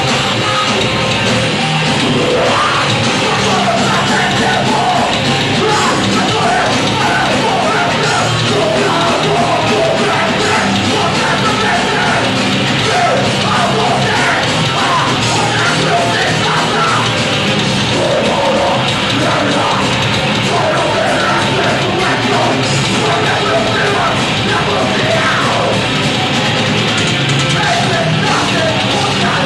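Heavy metal band playing live, loud distorted guitars and drums, with a singer yelling over it from about two seconds in.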